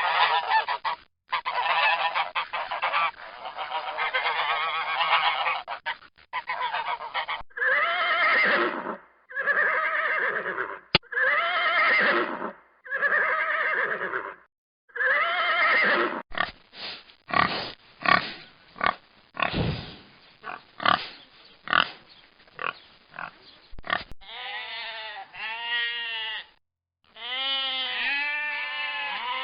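Geese honking: first a dense mass of overlapping calls, then a string of separate drawn-out honks about a second each, then quick short calls. Near the end, quavering bleats take over.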